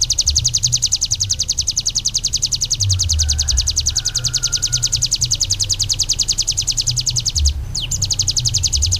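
A small songbird singing a long, harsh, rapid trill of about eight notes a second: the rolling 'tembakan' (shooting) song used in masteran training recordings. The trill breaks off briefly near the end and starts again, over a low rumble.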